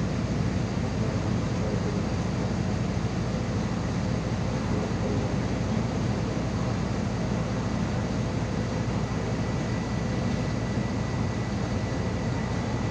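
MAZ-216 articulated city bus under way, heard from inside the passenger cabin: a steady, even drone of engine and road noise.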